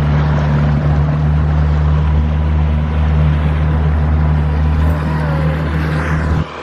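An engine running steadily, a loud low drone under a rushing hiss, that cuts off suddenly near the end.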